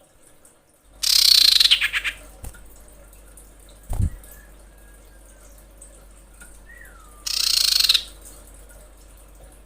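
Common iora (cipoh) giving two harsh, rasping calls about six seconds apart, each lasting about a second: a female's call to a male. A faint thin whistle falls between the calls, and a dull thump comes about four seconds in.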